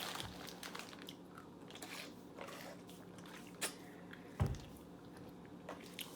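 Someone chewing candy with small mouth clicks and faint package handling, over a faint steady hum; a low thump about four and a half seconds in.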